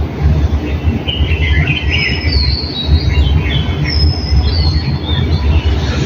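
Small songbirds chirping and giving short, high whistles in the trees from about a second in, over a steady low rumble that is the loudest sound throughout.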